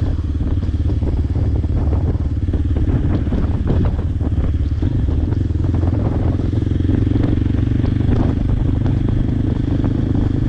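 Modified Hero Xpulse 200's single-cylinder engine running steadily while the motorcycle is ridden, its exhaust note climbing slightly about five seconds in.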